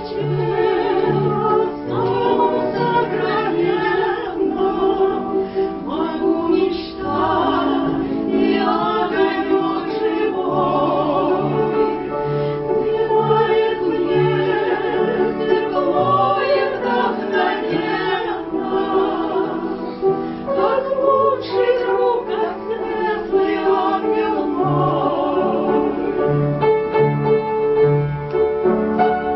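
Voices singing in a classical, operatic style with strong vibrato, over instrumental accompaniment.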